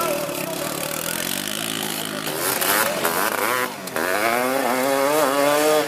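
Racing three-wheeler ATC engines revving on the track. About two-thirds through, the revs drop briefly, then one engine winds up in a long rising pitch and cuts off suddenly near the end.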